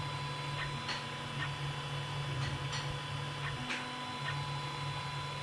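Creality CR-10 3D printer running with vibration dampers fitted to its stepper motors: a steady hum with faint irregular ticks, and two brief low tones as the motors move.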